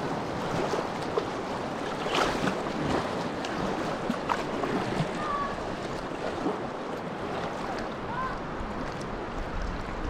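Creek water rushing and splashing around a kayak, with a few sharper splashes.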